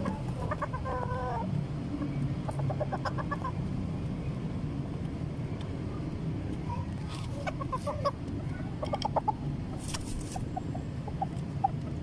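Serama chickens clucking in several short, rapid runs of notes, over a steady low hum.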